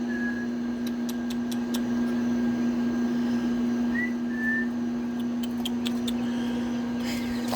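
Baby chicks peeping briefly, twice near the start and twice about four seconds in, over a steady low hum, with scattered light clicks.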